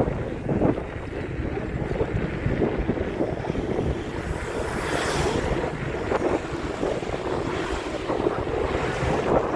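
Wind rushing over the microphone as an electric mountain bike rides downhill, its tyres rumbling over a rough, muddy track. There is a stronger gust about halfway through.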